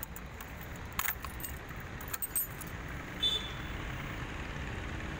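Light clicks and key jingling, as the motorcycle's key and switches are handled before the engine is started, over a low steady rumble.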